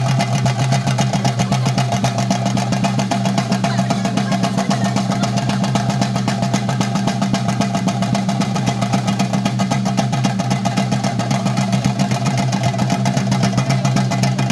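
Chenda drums of a theyyam ensemble played in a fast, unbroken roll, with a steady low drone underneath.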